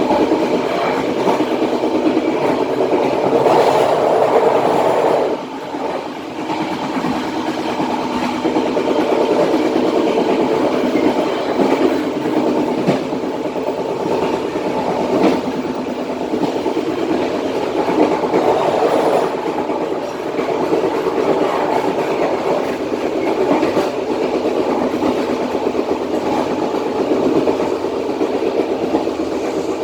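Matarmaja passenger train running along the track, heard from the rear of the train: a steady rumble of wheels on rails, with occasional sharp clicks.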